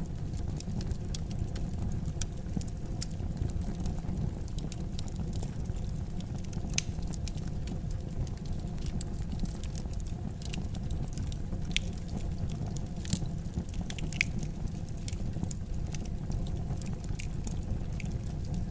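Fire in a fireplace crackling: a steady low rumble under scattered sharp crackles and pops, several louder ones around the middle.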